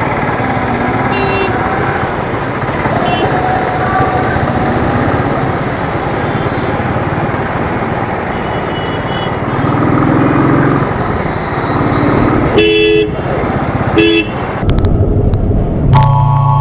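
City traffic heard from a moving motorcycle: steady wind and engine noise, with short car-horn honks about 12.5 and 14 seconds in. Near the end the road noise cuts off abruptly and a different sound with a steady tone takes over.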